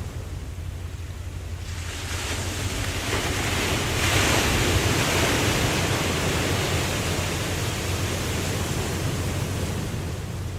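Ocean waves: one wave swells from about a second and a half in, breaks loudest around four to five seconds, and slowly washes out, over a steady low surf rumble.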